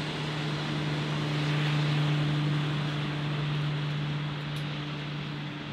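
Heritage passenger carriages rolling past on the rails behind a steam locomotive, a steady rumble with a constant low drone, slowly fading as the train draws away near the end.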